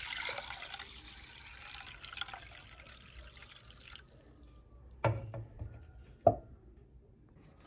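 Water running from a tap that shuts off about four seconds in, followed by two sharp clunks a little over a second apart.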